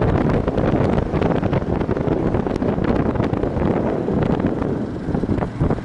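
Wind buffeting the microphone: a loud, rough rumble with no clear tone in it.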